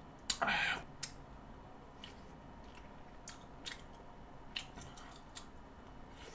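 Eating sounds from a person eating pork kimchi stew with a wooden spoon from a stainless steel pot. There is one short louder noisy sound about half a second in, then faint scattered clicks of chewing and mouth noises.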